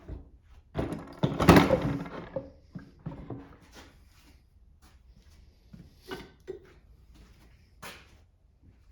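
Hand tools and metal engine parts being handled during a small-engine teardown. About a second in comes a loud clattering knock with a brief ring, followed by scattered lighter clicks and knocks.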